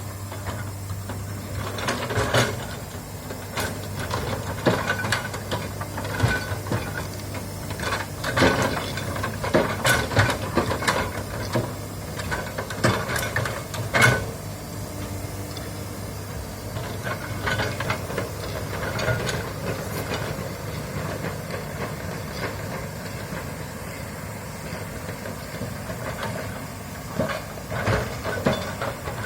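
Komatsu excavator's diesel engine running steadily, with many sharp cracks and knocks through it as trees and brush are broken during land clearing. The loudest crack comes about 14 seconds in.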